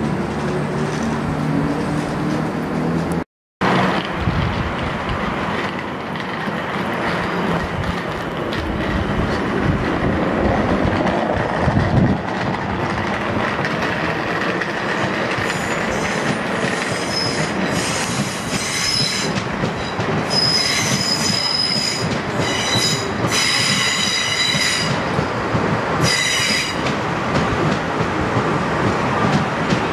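South Western Railway Siemens Desiro electric train rumbling past on curved track, its wheels squealing in high whistling tones through the middle part of the pass. Before a brief break about three seconds in there is a low hum.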